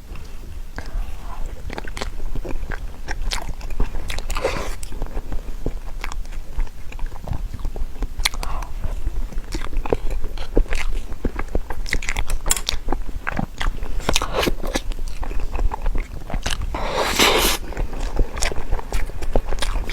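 Close-miked biting and chewing of a bear-shaped Chinese cake dessert, with many small crisp crunching clicks, and one longer, louder crackly burst about three-quarters of the way through.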